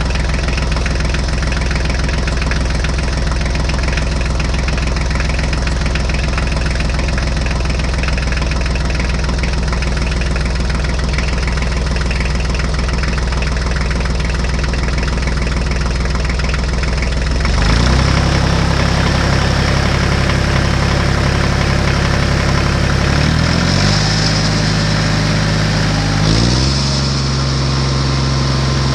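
A vehicle engine idling steadily. A little past halfway it switches abruptly to a different engine note, which dips and comes back up in pitch twice near the end.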